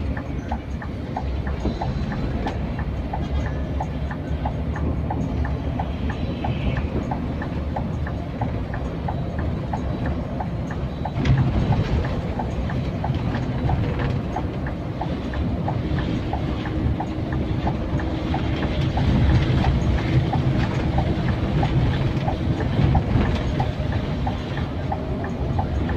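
Scania K410iB coach on the move: a continuous low engine and road rumble, with a light regular ticking about two to three times a second and an occasional knock.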